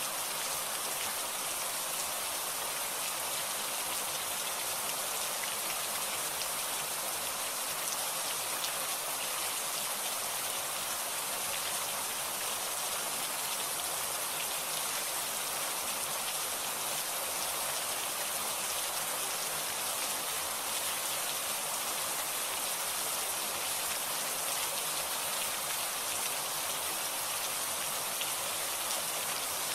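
Steady heavy rain falling, an even hiss of drops on surfaces with no clear breaks or single loud events.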